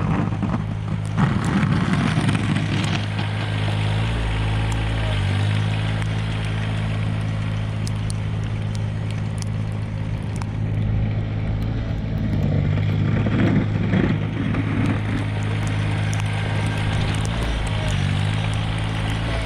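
Mahindra eMax 20S HST compact tractor's diesel engine running steadily, with louder rough noisy passages about a second in and again around twelve to fifteen seconds in.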